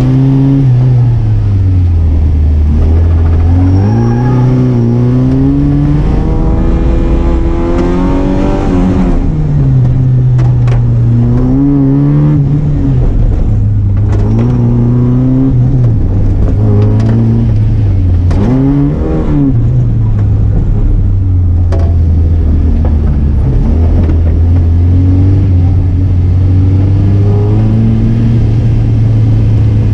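Car engine being driven hard in an autoslalom run, its revs rising and dropping over and over as the driver accelerates, lifts off and shifts between the cones.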